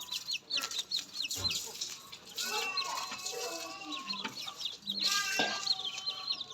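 A flock of farm poultry calling: clucking mixed with many rapid high-pitched peeps.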